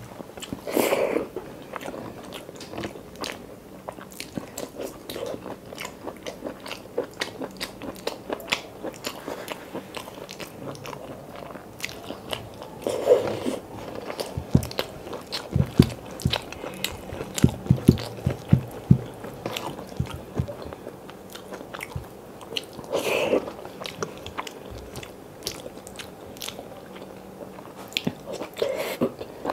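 Close-miked chewing of chicken curry and rice eaten by hand: constant small wet mouth clicks and smacks, with three louder bites spaced about ten seconds apart.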